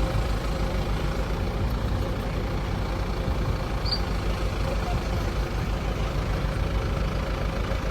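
Heavy diesel machinery engine running steadily with a low, pulsing rumble, with a brief high chirp about four seconds in.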